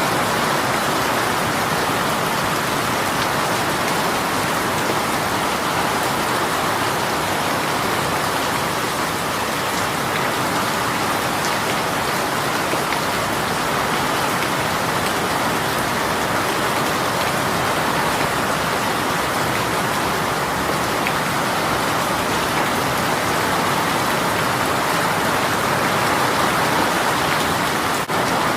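A rain shower falling steadily: an even hiss of rainfall with no breaks, with a momentary dip in level near the end.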